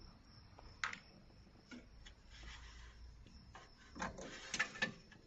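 Faint clicks and knocks of an air-conditioning line fitting and tools being handled: one sharp click about a second in and a cluster of clicks near the end.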